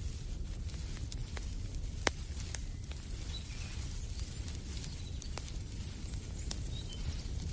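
Wood fire in a fireplace crackling: scattered sharp pops over a steady low rumble of burning, the loudest pop about two seconds in. Faint bird chirps come twice.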